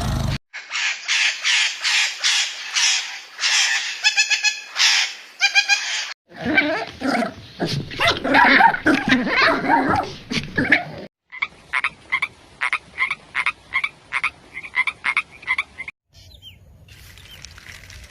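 Animal calls in several short clips cut together. First come rapid repeated pulsed calls, then a dense chorus of many overlapping calls, then single calls repeating about twice a second. Each segment stops abruptly at a cut.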